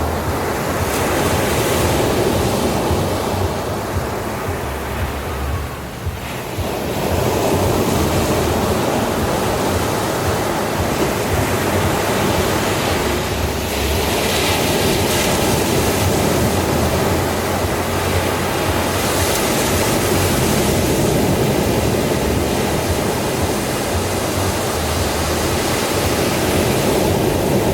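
Ocean surf: waves washing in and breaking in a continuous rush that swells and eases, dipping briefly about six seconds in.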